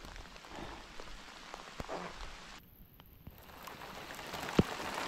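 Rain falling onto lake water: an even hiss of many drops striking the surface, which briefly dips a little past halfway and grows louder toward the end. A single sharper tap comes about four and a half seconds in.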